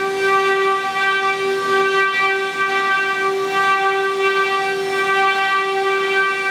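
Multi-head CNC wood router's spindles running, giving a steady whine with even overtones.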